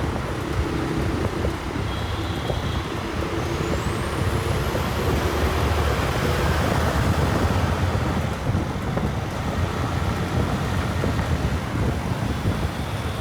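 TVS Raider 125 motorcycle's single-cylinder engine running steadily on the move, under a haze of road and wind noise, a little louder around the middle.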